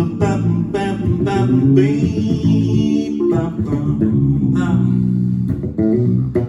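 Music: plucked guitar and bass guitar playing an instrumental passage, with a melody line above.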